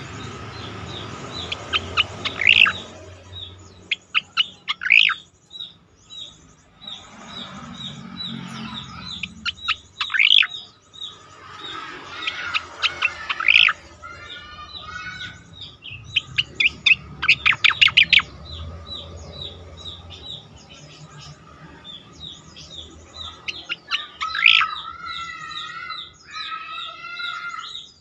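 Striated grassbird singing: rapid runs of sharp chirps with loud upward-sweeping whistles, a fast burst of repeated notes past the middle, and wavering warbled phrases in the middle and near the end.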